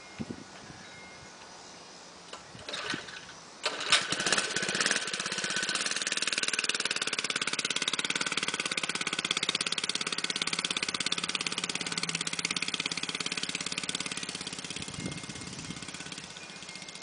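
Mini bike's small engine starting: a short attempt, then it catches about four seconds in and runs with a fast, even beat. It grows quieter near the end as the bike rides away.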